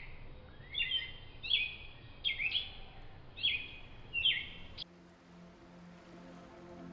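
A small songbird singing a series of about six short, high, sweet phrases at an even pace, cut off abruptly about five seconds in.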